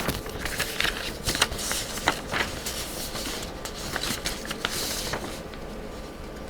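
Pages of a book being flipped and paper rustling: a run of quick, crisp rustles and light taps that die down about five seconds in.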